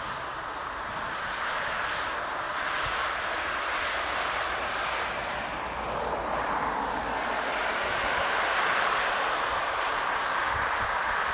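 Airbus A320 jet engines on landing approach: a steady jet noise that grows a little louder later on, with wind rumbling on the microphone.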